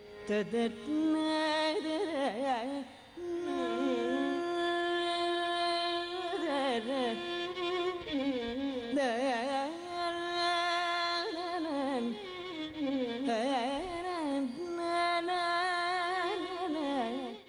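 A short Carnatic music example of a desiya raga: a single melodic line holds notes and slides and wavers between them in gamakas, in the free, unmetred style of alapana.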